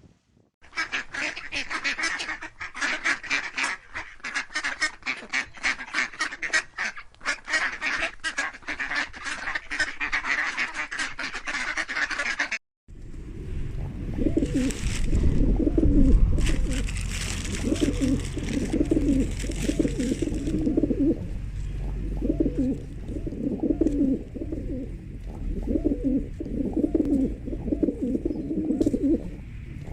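Birds calling: dense, rapid calls overlapping in quick succession, cut off suddenly about 13 seconds in. Then a different bird sound follows, low calls repeating about once a second over a low rumble.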